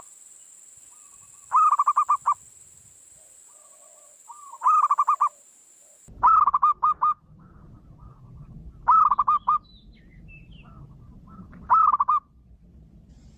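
Zebra dove (perkutut) cooing: five phrases of quick staccato coos, each about a second long, spaced roughly three seconds apart. It is the call used as a lure to draw wild zebra doves.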